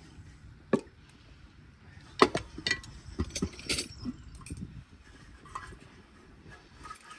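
A series of irregular light clinks and knocks, the loudest a little over two seconds in.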